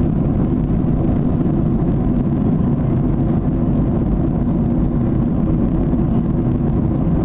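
Steady low rumble of a Boeing 737's engines and airflow, heard from inside the cabin.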